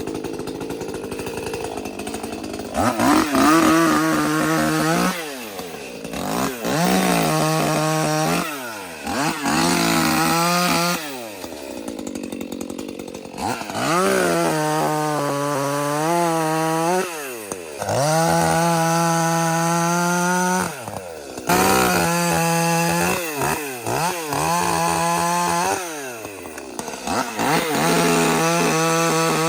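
Ported Echo CS-310 30cc two-stroke chainsaw revving up to full throttle and dropping back to idle about eight times, making short cuts through oak limbs and brush.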